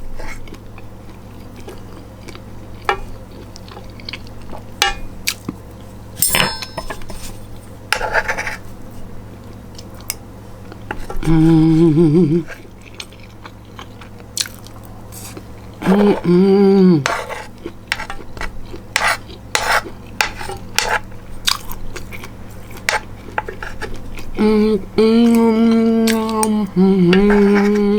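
Utensil clinking and scraping on a plate, with chewing, while someone eats. Three short hums of voice come through, about a second or so each: one in the first half, one just past the middle and a longer one near the end.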